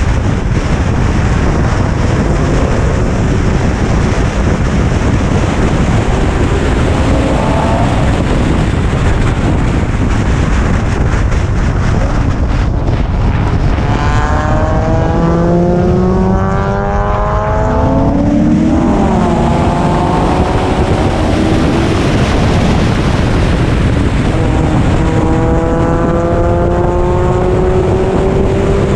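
Car engine on track, its pitch climbing under hard acceleration about halfway through, dropping briefly, then climbing again near the end, under a steady heavy roar of wind buffeting the microphone and road noise.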